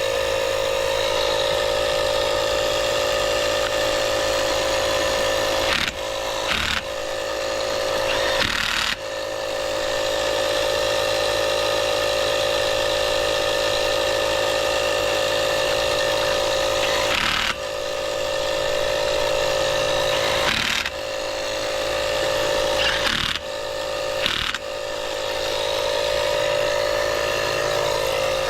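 Small electric air compressor motor running steadily while a tire is inflated. Its pitch and loudness dip briefly several times, then climb back each time.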